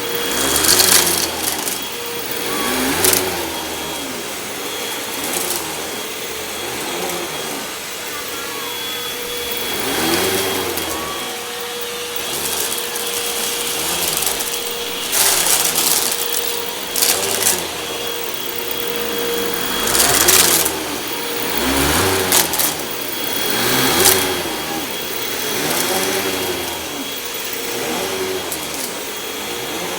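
Hoover WindTunnel 2 Rewind upright vacuum running steadily with a whine, its pitch swelling and falling every second or two as it is pushed back and forth over carpet. Now and then sharp crackles and clicks come through as debris is sucked up. The owner says its belt is due for replacement.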